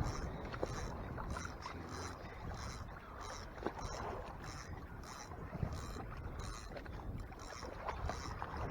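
Water and wind noise around a pedal-and-sail kayak under way on open water, with a soft high hiss pulsing about twice a second.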